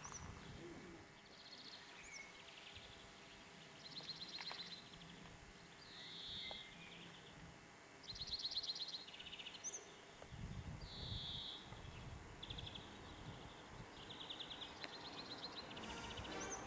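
Faint birdsong: small birds giving short rapid trills and chirps every second or two, over a low rumble that swells now and then.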